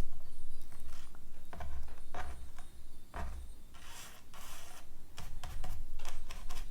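Paper being handled and rubbed on a work surface: irregular rustling, crinkling and scraping strokes as collage pieces are placed and pressed down.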